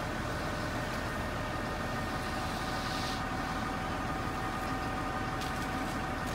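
Concrete pump engine running steadily, with several steady whining tones over it.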